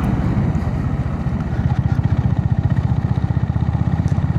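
Honda GB350S's single-cylinder engine running steadily at cruising speed on the road, its exhaust pulses coming through as an even, rapid low throb.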